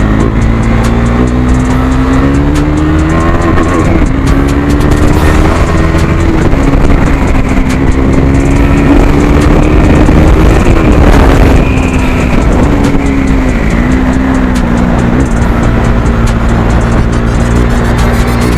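KTM 390 Duke's single-cylinder engine running through an exhaust with the dB killer removed, under way. The engine note climbs with the revs, drops sharply about four seconds in as if at a gear change, climbs again, then holds fairly steady with a few brief dips.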